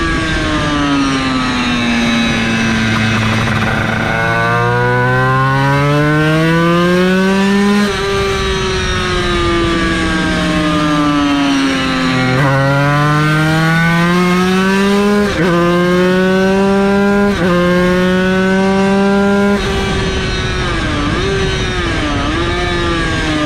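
Yamaha TZ250 two-stroke twin race engine running hard on track, climbing in pitch through the gears with sharp breaks at each upshift, dropping as the bike slows, then short rev blips on the downshifts near the end.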